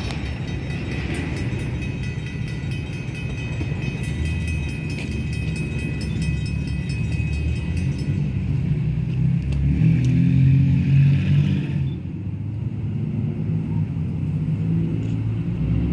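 Steady low rumble of a freight train moving away, mixed with road traffic. A road vehicle passing over the crossing makes it loudest from about ten seconds in, then it drops suddenly.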